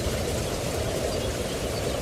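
Steady rushing water noise, even and unbroken, with a few faint high chirps around the middle.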